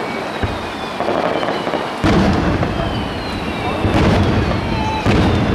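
Starmine fireworks barrage: aerial shells launching and bursting in quick succession over a continuous crackle, with heavy booms about two seconds in, near four seconds, and again near the end.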